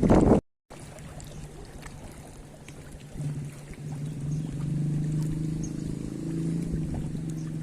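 An engine running steadily, its low hum coming up about three seconds in and holding over a faint background of wind and water.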